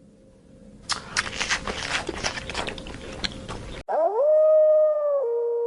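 Dog howling: one long call that rises in pitch, is held, then drops a step and holds again. Just before it is a noisy, crackly stretch that cuts off suddenly.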